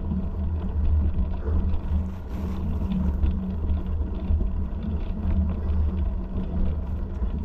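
Steady low rumble with faint scattered ticks and rattles.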